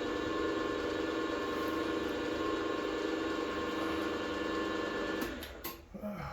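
Air compressor running steadily, then winding down and stopping about five seconds in, with a few clicks as it stops.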